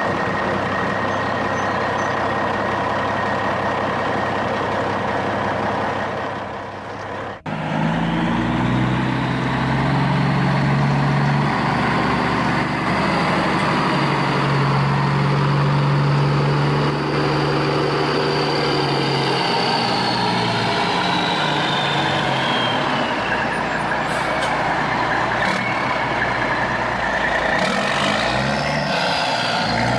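Radio-controlled dump truck running, with a steady low drone and a high motor whine that rises and falls as the speed changes. The sound cuts off suddenly about seven seconds in and starts again straight away.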